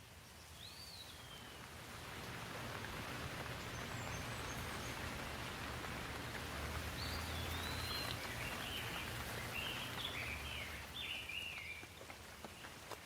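Steady rain falling, swelling about two seconds in, with birds chirping over it: one falling chirp about a second in and a run of chirps in the second half.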